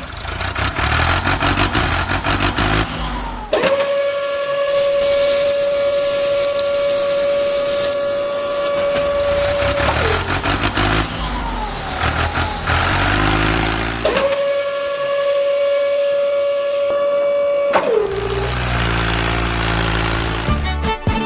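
An engine revving up to a steady high-pitched whine and holding it for several seconds, then dropping back to a low rumbling idle. This happens twice.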